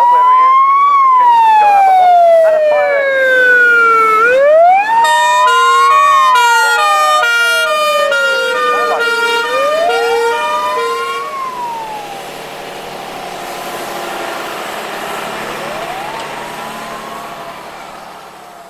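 Wailing siren on a vehicle, its pitch rising quickly and falling slowly in repeated cycles about five seconds long. Midway a second tone rings in quick even pulses for several seconds, and near the end the siren fades away.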